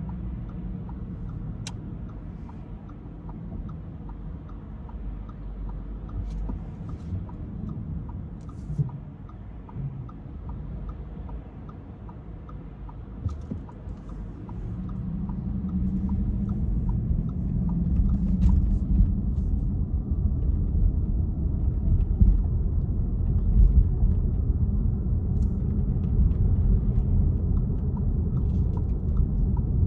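A car driving through city streets: steady low rumble of the engine and tyres on the road, growing louder about halfway through. A faint, regular ticking runs along with it.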